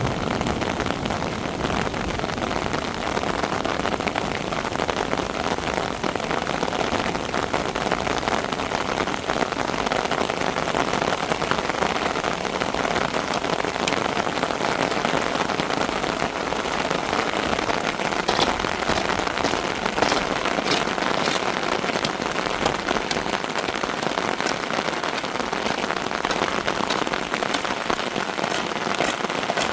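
Steady rain falling: an even rushing hiss, with a few brief sharp clicks in the later half.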